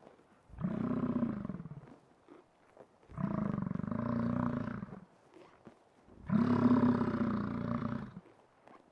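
American bison bellowing: three long, low calls, each about two seconds, with short pauses between.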